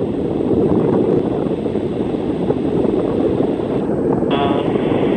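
Jet airliner engines running, a loud, steady rumble. Air-traffic-control radio hiss sits over it, with a brief snatch of radio transmission near the end.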